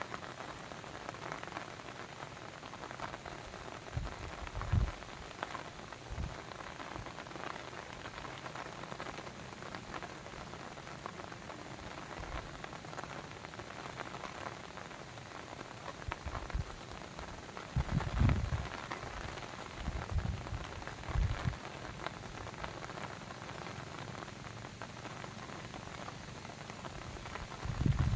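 Steady patter of falling water with many fine drop-like ticks. A few short low thumps break in, the strongest about 18 and 28 seconds in.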